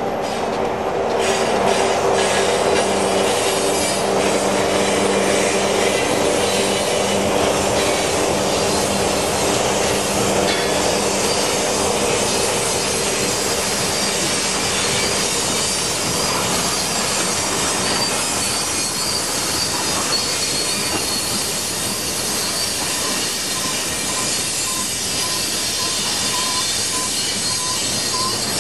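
A loaded coal train rolling past on steel rails, its wheels squealing on and off. A low engine drone fades out over the first few seconds.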